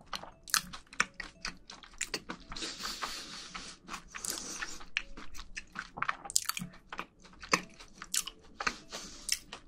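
A person chewing food close to the microphones, mouth closed: many short mouth clicks and smacks, with a denser stretch of chewing noise from about two and a half to five seconds in.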